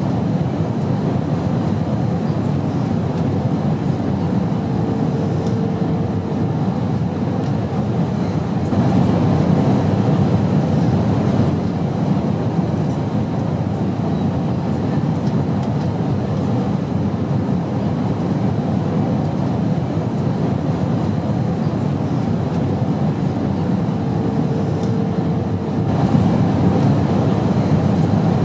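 Airplane noise: a steady, even low rumble with no breaks, and a faint tone showing above it briefly twice.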